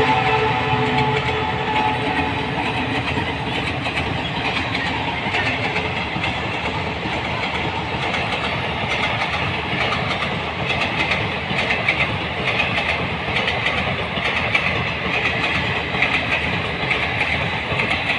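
Indian Railways passenger coaches rolling past at speed: a steady rumble of steel wheels on rail with clickety-clack over the rail joints, the clacks coming in louder groups towards the end.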